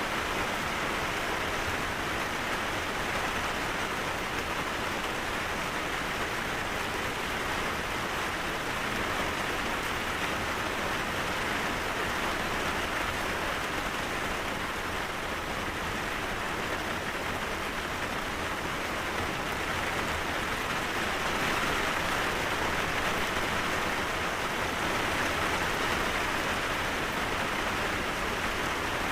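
Steady rainfall, an even hiss of rain with no breaks or single drops standing out.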